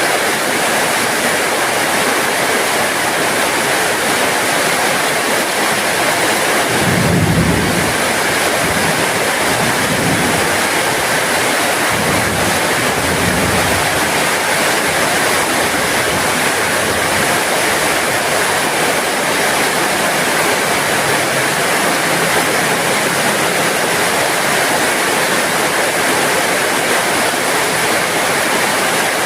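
Heavy rain falling steadily, a dense, even hiss. About seven seconds in, a brief low rumble rises under it, with fainter low swells a few seconds later.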